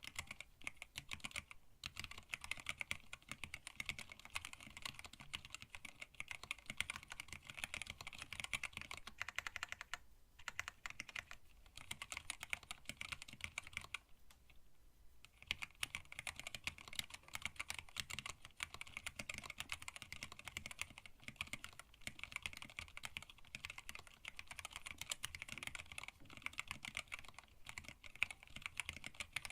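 Steady, fast typing on a hand-wired split mechanical keyboard with Tealios linear switches, PBT keycaps and an acrylic case: dense key clacks with brief pauses, the longest about halfway through.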